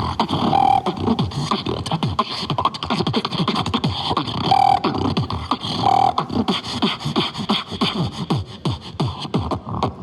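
Beatboxing: a fast, unbroken stream of mouth percussion, with quick falling bass kicks, sharp clicks and snares, and a few short held tones mixed in.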